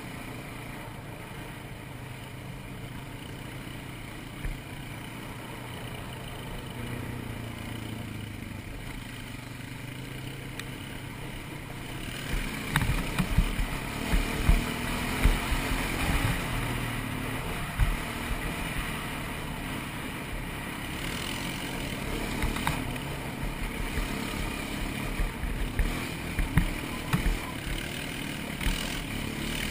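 ATV engine running at a steady low pitch. About twelve seconds in it gets louder as the quad gets under way, with repeated low thumps and knocks over the engine noise.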